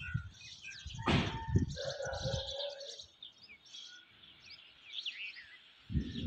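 Many small birds chirping and twittering, short high calls overlapping one another, with a brief low rumble about a second in.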